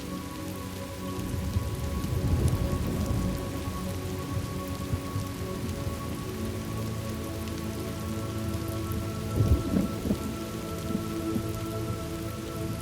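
Steady rain falling, with thunder rumbling low about two seconds in and again, more briefly, about nine and a half seconds in.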